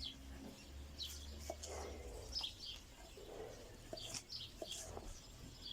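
Small birds chirping repeatedly in short high calls, with a few scattered light clicks.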